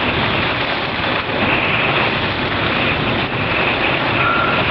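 Severe storm wind and heavy wind-driven rain, a loud steady rush of noise.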